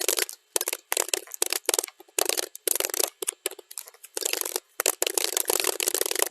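Rapid computer-keyboard typing, sped up to double speed: a dense run of key clicks that slows and breaks off into scattered strokes about halfway through, then picks up again at full pace.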